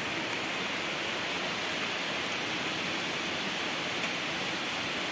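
Heavy rain falling steadily on trees and dense foliage: an even, unbroken hiss.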